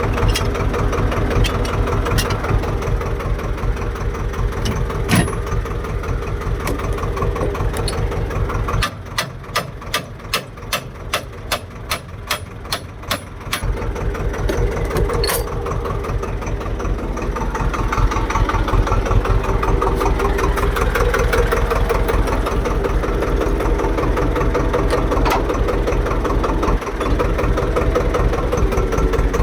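Swaraj tractor's diesel engine running with a steady, dense chug. For a few seconds near the middle the full engine sound drops away to a row of evenly spaced knocks, about two to three a second, then the engine runs fully again.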